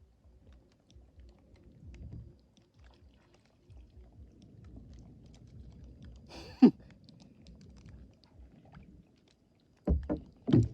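Faint, irregular rustling and knocking from handling a gill net and its catch in a small boat, with one sharp loud knock about two-thirds of the way through and two heavy thumps near the end.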